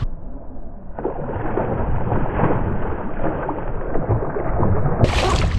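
Muffled splashing and rumbling of water as a hooked bass is fought up to the kayak. The sound is dull and treble-less, and full brightness returns near the end.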